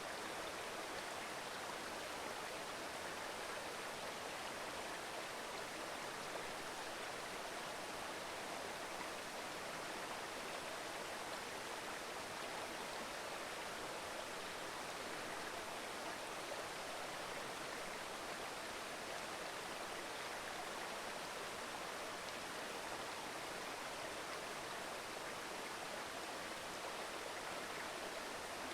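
Mountain river babbling over rocks: a steady, even rush of flowing water.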